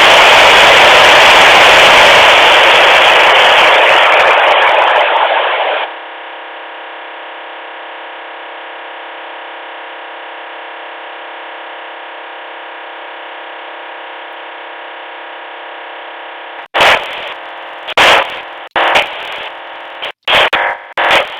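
Strange signal heard through the speaker of a Luiton LT-316 walkie-talkie. Loud steady static hiss gives way after about six seconds to a quieter, steady multi-tone buzz. About seventeen seconds in, choppy bursts of static start cutting in and out.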